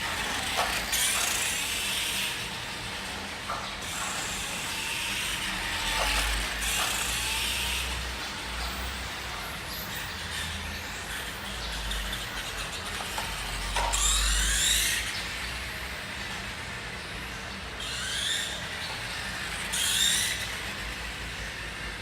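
Nikko 1:5 RC Ducati motorcycle's electric motor and gearbox whining in repeated bursts. The pitch rises as it speeds up, with clicks and rattles in between. The transmission has just been repaired.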